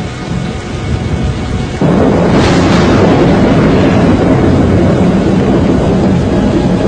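Strong storm wind rushing as a dense, loud noise, with music underneath; it jumps much louder about two seconds in.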